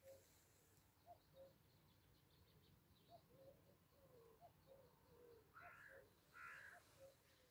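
Faint birds calling in the open: short, soft low calls repeat through, with two harsher, noisier calls a little over two-thirds of the way in.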